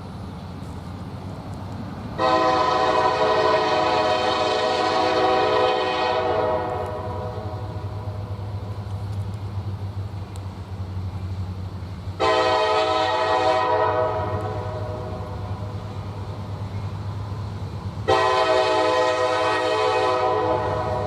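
Locomotive horn sounding three blasts: a long one of about four seconds, a shorter one in the middle and another near the end, over a steady low engine rumble that builds as the train approaches.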